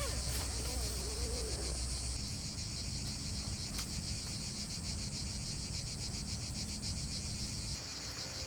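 Insects chirring steadily in a high, fast-pulsing drone, with a short wavering call in the first second or so.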